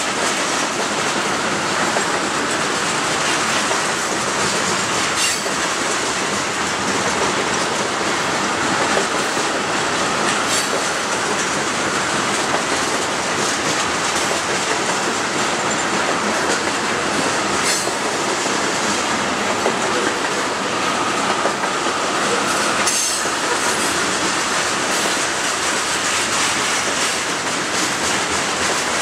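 Tank cars of a freight oil train rolling steadily past, the wheels clicking over the rail joints every few seconds.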